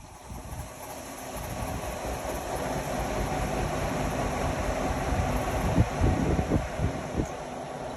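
Indesit Innex XWA 81252 front-loading washing machine running, its motor and drum noise growing louder over the first three seconds and then holding steady. A few thumps come near the end.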